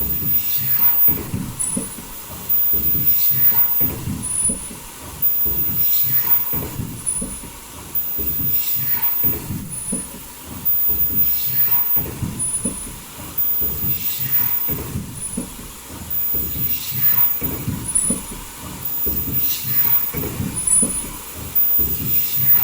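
Automatic foldable mask production line with valve welding running in a steady cycle, repeating about every two and a half seconds: each cycle brings a short high-pitched whine, a falling sweep, hiss and a clatter of mechanical knocks.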